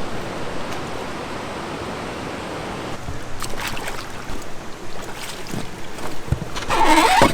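Steady rush of river water, with a few brief knocks and a louder burst near the end.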